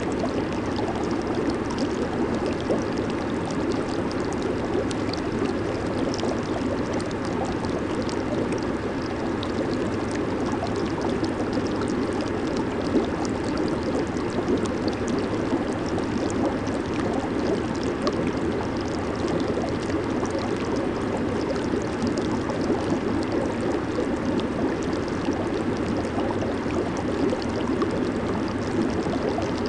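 Jacuzzi churning: steady bubbling and rushing of water from the jets, with fine crackle of bursting bubbles.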